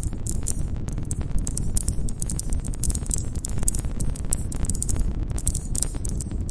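Campfire burning, with dense irregular crackles and pops over a steady low rumble of flame. High chirping of crickets runs alongside.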